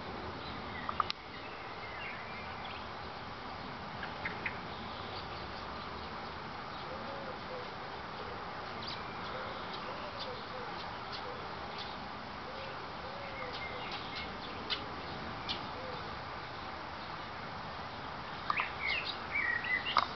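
Birds chirping: scattered short high calls over a steady background hiss, with a quick cluster of chirps near the end.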